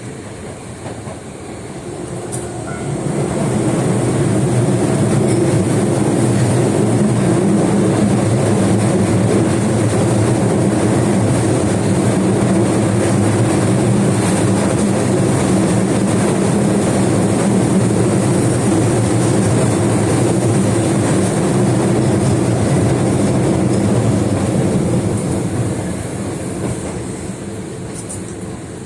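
Osaka Metro 22 series subway train running through a tunnel, heard from inside the car: a steady rumble of wheels and running gear that swells a few seconds in, holds, and fades near the end.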